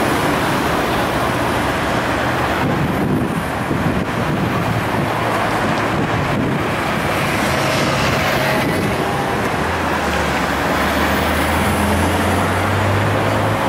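Ferrari F355's V8 engine running in street traffic, mixed with road and traffic noise; a steady low engine hum settles in about ten seconds in.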